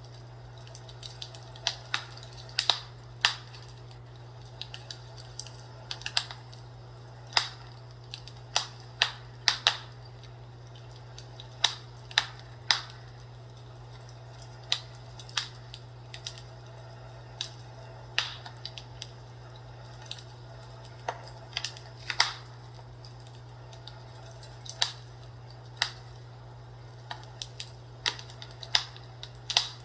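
Fireplace crackling: irregular sharp pops and snaps, about one or two a second, over a steady low hum.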